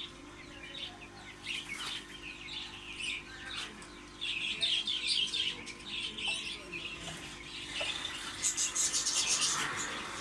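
Small caged birds chirping and twittering continuously in a dense, overlapping chatter, with a louder run of higher-pitched chirps about eight seconds in. A faint steady hum runs underneath.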